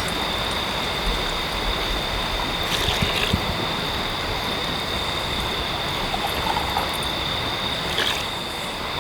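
Steady rushing water of a stream, with a thin, steady high-pitched tone over it and a couple of faint clicks.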